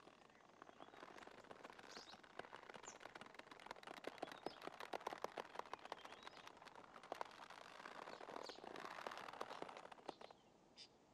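Faint bird chirping over quiet outdoor ambience, with a dense run of rapid small clicks and chirps that is busiest in the middle.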